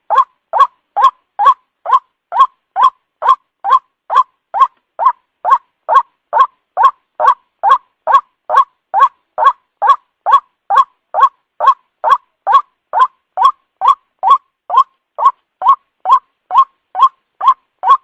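White-breasted waterhen (ruak-ruak) lure call: one short, identical call repeated at an even, unbroken rate of a little over two a second, typical of a looped playback used to draw the birds in at night.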